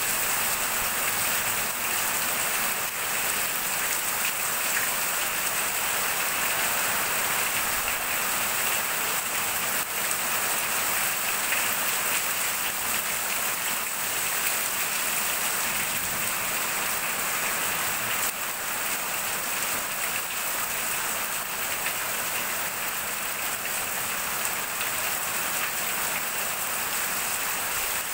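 Heavy rain falling steadily, with water streaming off the edge of a corrugated roof and splashing onto concrete below. An even, unbroken hiss.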